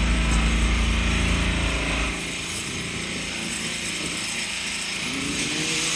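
Nearby motorised machinery running with a rapid mechanical rattle, cutting off about two seconds in and leaving general street noise, with a faint rising tone near the end.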